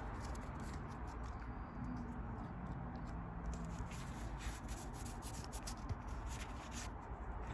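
Faint light clicks and rustles of Pokémon trading cards being handled, over a low steady room hum.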